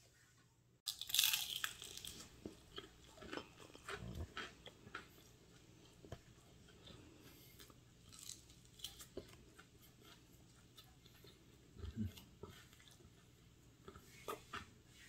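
Biting into and chewing a piece of crispy fried chicken, close to the mic. A loud crunch comes about a second in, followed by a run of smaller crunches and chewing clicks, with a few louder crunches near the end.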